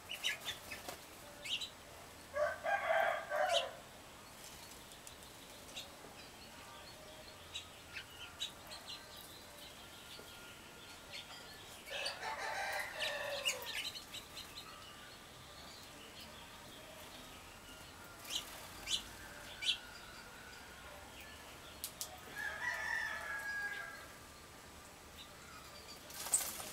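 A rooster crowing three times, about ten seconds apart, with short, high chirps of small songbirds between the crows.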